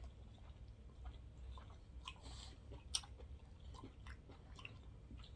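A person chewing sushi close to the microphone, with small wet mouth clicks and one sharper click about three seconds in.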